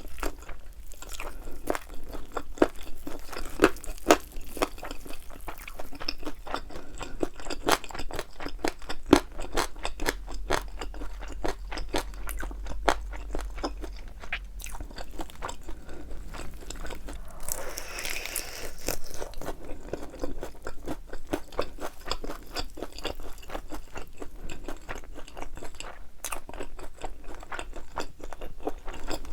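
Close-miked crunching and chewing of crispy fried chicken wings with thin, crisp batter: irregular sharp crunches, several a second, throughout.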